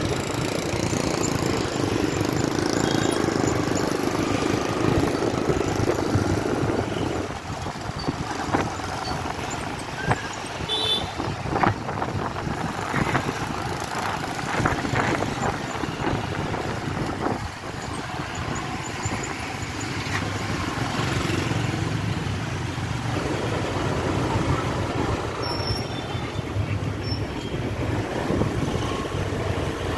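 Dense city traffic heard from a moving motorbike: the engines of motorbikes and cars all around, with a haze of road and wind noise. Scattered short, sharp knocks and clicks come through in the middle.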